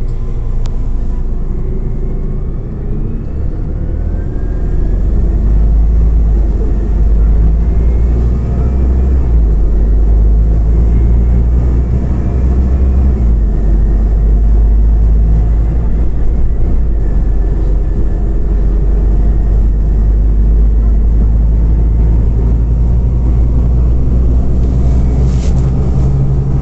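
Interior of a Scania OmniCity CNG city bus on the move: a steady low engine and road rumble, getting louder about five seconds in, with faint whines rising in pitch over the first dozen seconds as it gathers speed. A short click or knock near the end.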